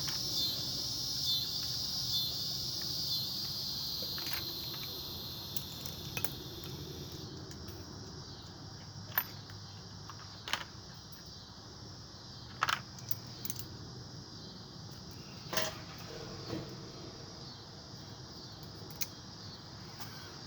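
Crickets trilling steadily with a fast pulse, fading out about seven seconds in. Through the rest come a few scattered sharp metallic clinks and knocks of hand tools being rummaged and handled.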